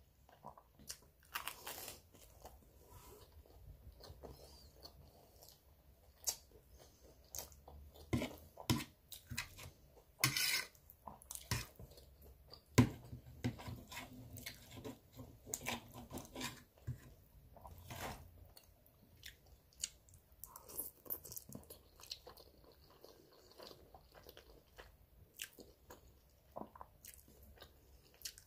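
Close-miked eating sounds: a person chewing and biting spaghetti with meat sauce and bread, a quiet, irregular run of wet smacks and short crunchy clicks.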